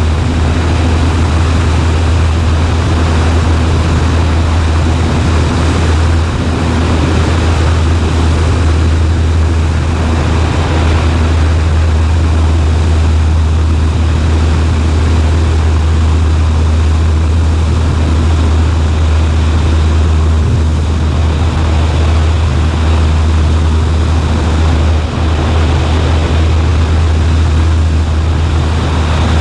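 Cessna 140A's piston engine and propeller droning steadily, a strong low hum under constant air noise, with no change in power.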